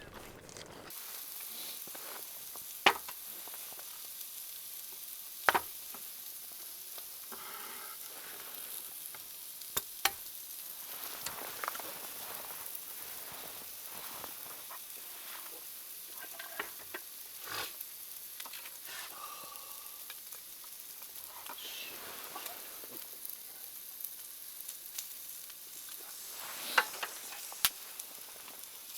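Mutton and bean sprouts sizzling in a jingisukan grill pan: a steady frying hiss, with a few sharp clicks now and then.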